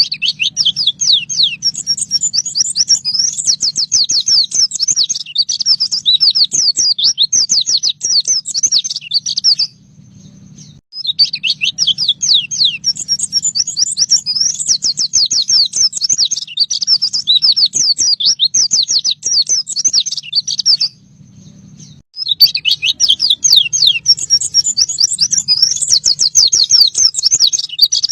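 White-eye (pleci) singing its fast 'nembak' song: long runs of rapid, high chirping notes, each run about ten seconds, broken by short pauses twice. A faint low hum runs underneath.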